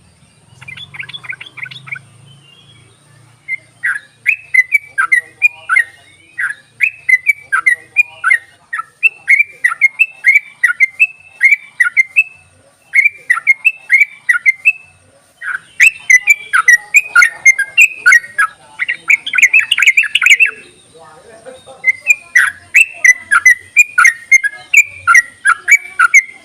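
Trucuk (yellow-vented bulbul) singing its rapid chattering song: long runs of short, down-slurred whistled notes, about three a second, broken by brief pauses, with a denser, louder burst of notes a little past the middle.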